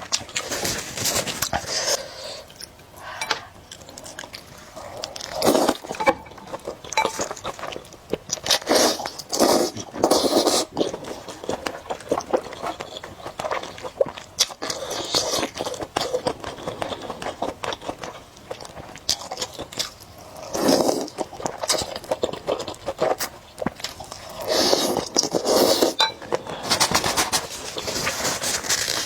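Close-miked eating: irregular bursts of noodle slurping and chewing with wet mouth clicks, repeating every few seconds.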